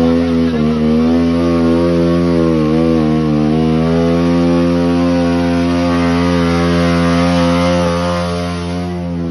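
A small motor vehicle engine running loud, its pitch rising and falling for the first few seconds, then held steady.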